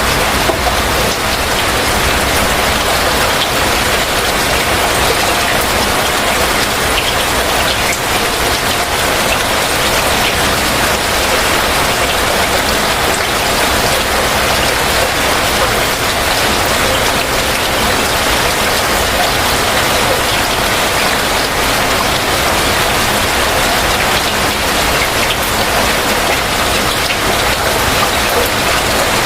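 Heavy rain falling steadily: a dense, even hiss of rain with no breaks.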